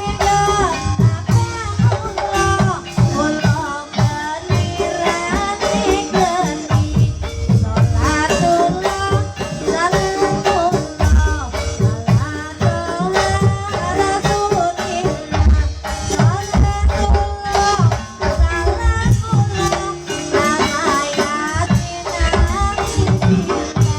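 Javanese ebeg (kuda kepang) gamelan music playing steadily: hand-drum strokes and rattling metal percussion under a melody with bending, sliding notes.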